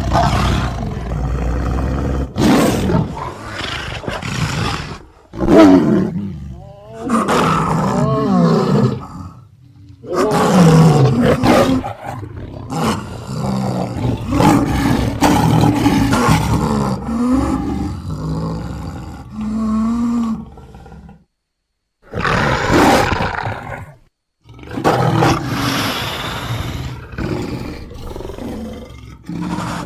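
A run of big-cat roars and growls, from lion, tiger and sabre-toothed cat (smilodon) sound effects edited together into one creature's voice. The calls come one after another with short pauses, and there are two brief silent gaps in the second half.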